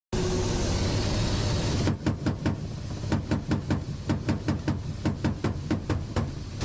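A steady rush of military-helicopter noise, then from about two seconds in a rapid run of sharp bangs, some five or six a second, over a low rumble.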